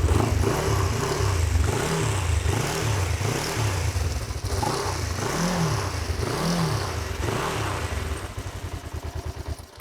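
Kawasaki GPZ500S parallel-twin motorcycle engine running and being blipped repeatedly, the revs rising and falling about once a second, then settling before the sound cuts off near the end. The engine has just been revived after four years standing.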